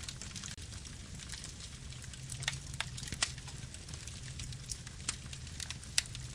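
Campfire burning: a steady low rumble with frequent sharp crackles and pops of the burning wood, a few of them louder.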